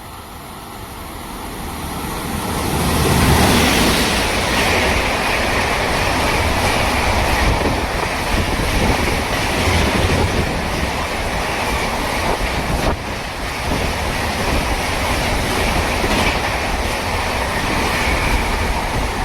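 Indian Railways electric train passing at speed close by: the noise builds over the first few seconds into a loud, steady rumble and rush of wheels on rails. A few sharp clacks come through it, about two-thirds of the way in.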